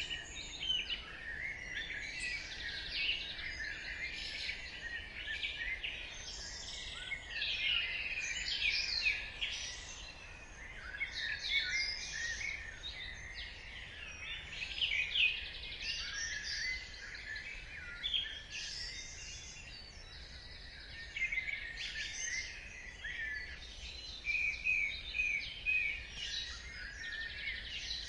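Dawn chorus: many songbirds singing and chirping at once, a dense mix of overlapping high chirps, trills and warbles.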